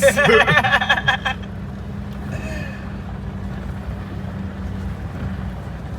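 Truck engine and road noise inside the cab while driving, a steady low drone with a constant hum. A loud burst of voice fills the first second and a half.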